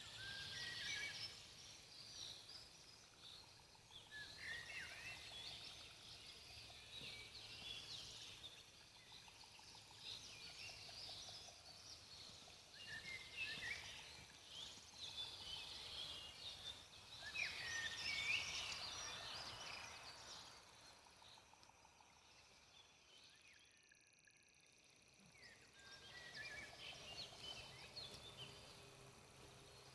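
Faint campfire crackling in irregular clusters of small pops, fading briefly about three-quarters of the way through.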